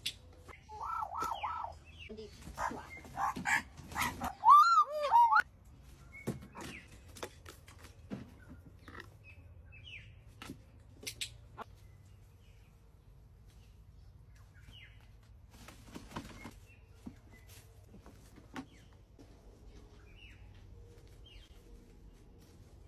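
Birds calling: a run of wavering, pitched squawks in the first five seconds, the loudest about four and a half seconds in. After that come scattered clicks and faint short chirps.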